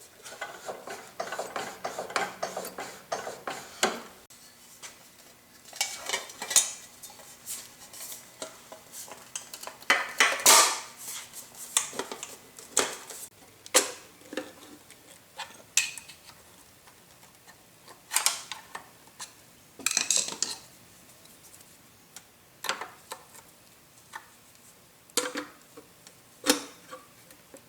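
Metal parts of a Yates American J180 wood planer, its feed roller, rocker arms and chip breaker, clinking and clanking as they are worked by hand. A dense rattle for the first few seconds, then scattered single clanks, some of them ringing briefly.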